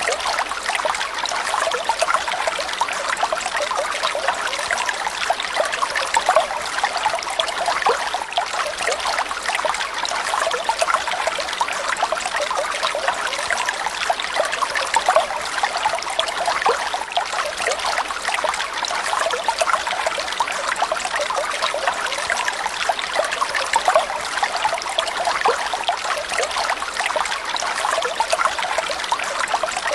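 Steady trickling, running water, like a small stream or water feature.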